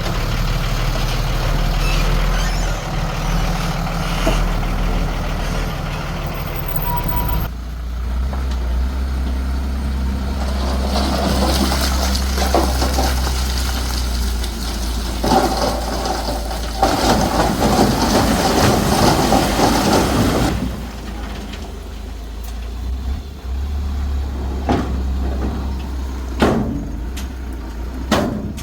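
Heavy diesel earthmoving machinery running: a bulldozer and dump trucks at work moving soil. There is a loud rushing stretch through the middle and a few sharp clanks near the end.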